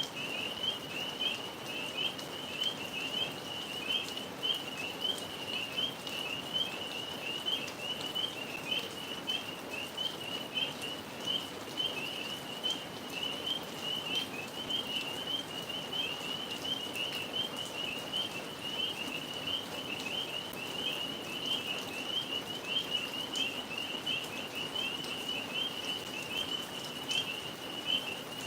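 A chorus of tree frogs calling steadily, many high-pitched rapid trills overlapping into one continuous sound.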